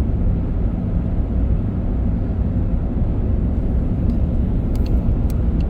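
Steady low rumble of engine and tyre noise inside a moving car, with a few faint clicks near the end, cutting off abruptly.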